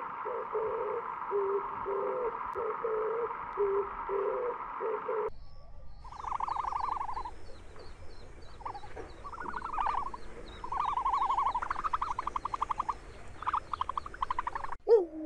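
Bird calls: a run of short, low, hooting calls repeated about once or twice a second, then, after a break about five seconds in, high chirps and buzzy trilled calls.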